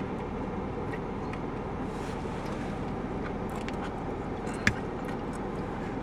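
A car's air conditioning running steadily inside the cabin, with the engine on: a continuous low hum and fan noise. Small ticks come now and then, and one sharp click a little over two-thirds of the way through.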